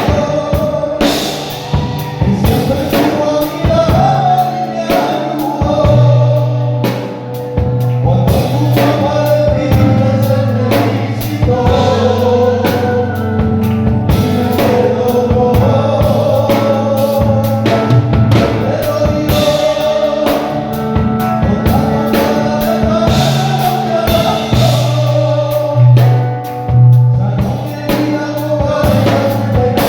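Live gospel worship music: singers over a drum kit and steady bass notes.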